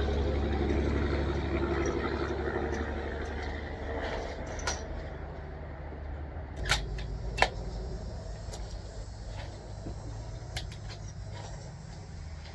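Low rumble of big trucks going by, fading away over the first few seconds, with a few sharp clicks, two of them close together midway.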